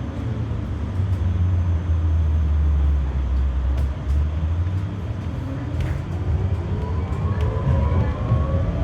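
Electric traction motors of a GT low-floor tram heard from inside the car: a low rumble, then from about halfway through a whine that rises steadily in pitch as the tram pulls away and accelerates.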